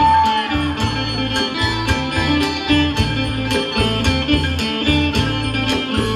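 Isan pong lang folk ensemble playing a lively tune: plucked lute melody over a steady drum and percussion beat.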